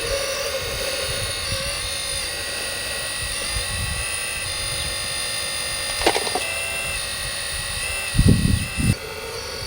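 Small electric motors of radio-controlled scale construction models whining steadily, the pitch shifting every few seconds as they work. A sharp click comes about six seconds in, and two louder low bumps come just before the end.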